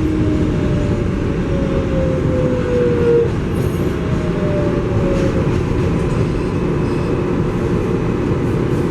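R188 subway train braking: the traction motor whine falls in pitch over the first five seconds or so as the train slows, then settles into a steady hum over the rumble of the car.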